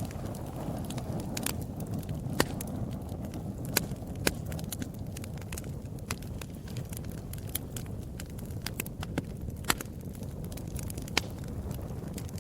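Fireplace fire crackling: irregular sharp pops and snaps over a steady low rumble of burning flames.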